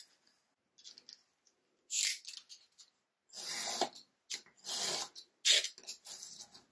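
Paper being handled and marked: a handful of short, scratchy rustles on paper, with gaps of near quiet between them.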